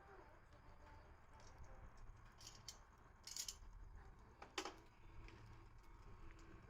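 Faint wood fire crackling, with a few scattered sharp pops; the strongest pop comes about four and a half seconds in.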